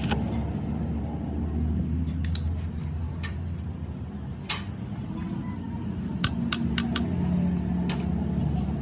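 A workshop machine running with a steady low hum while small metal parts or tools clink sharply now and then, several clinks close together in the second half.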